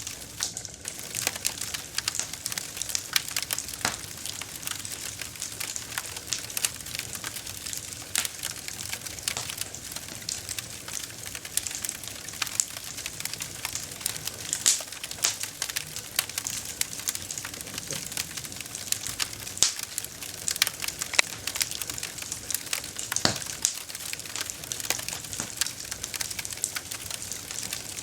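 Campfire burning, wood crackling and popping in a dense, irregular stream of sharp snaps over a steady hiss.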